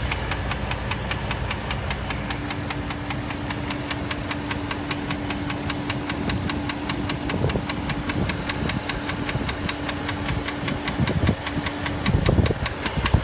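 Dodge Durango's 4.7-litre V8 idling with a rapid, even ticking knock that the owner can't identify, which his mechanic thinks it can be driven with for a good while. A steady tone runs through most of it.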